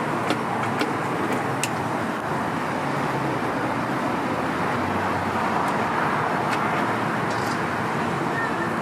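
Steady street noise with passing traffic, broken by a few short sharp clicks.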